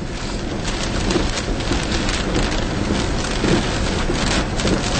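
Heavy, wind-driven thunderstorm rain beating down in a dense, steady patter of many small hits, rising slightly in loudness.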